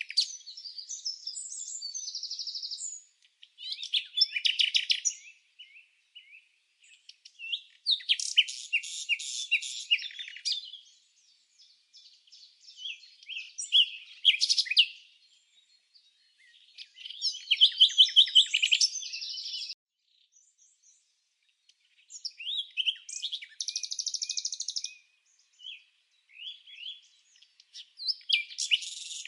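Songbirds chirping and trilling in high-pitched phrases of two to three seconds each, about every four seconds, with near-silent gaps between.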